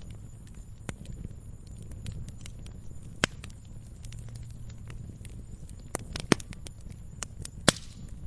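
Campfire of burning wood crackling, with irregular sharp pops, the loudest about three seconds in, around six seconds and near the end, over a steady low rumble.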